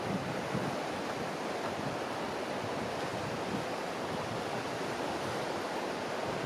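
Ocean surf washing steadily along a rocky shore, with wind.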